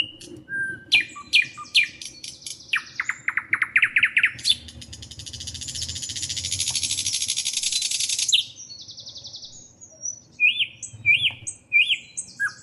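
Birds chirping with varied high calls: quick sweeping notes, a fast run of rising chirps about three seconds in, then a long buzzy trill lasting about four seconds, and more looping chirps near the end.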